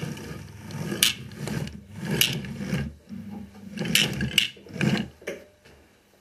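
Toy trains pushed along a track: a steady low rolling rumble broken by sharp clicks about once a second, dying away near the end.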